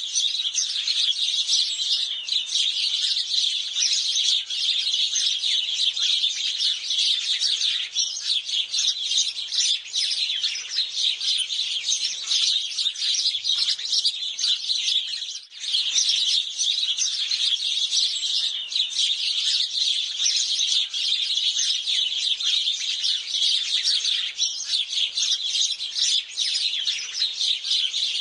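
A flock of house sparrows chirping continuously, many calls overlapping, with a brief lull about halfway through.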